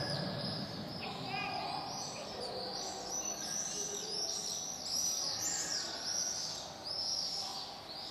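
Small birds chirping over and over, in many short high chirps, over the low hush of a large prayer hall.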